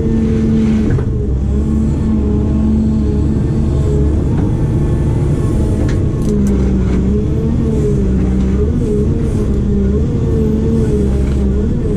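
Diesel engine of a heavy construction machine running under load, its pitch rising and falling as the hydraulics work, with a couple of sharp clicks about halfway through.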